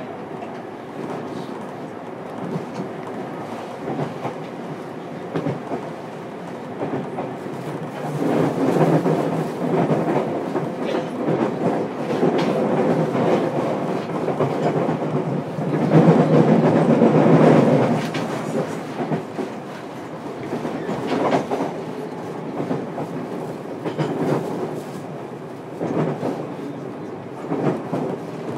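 Running noise inside the motor car of a JR Kyushu 303 series electric train at speed between stations: a steady rumble of wheels on rail with the traction motors' hum and rail-joint clacks. The noise swells louder about eight seconds in and again around sixteen to eighteen seconds in.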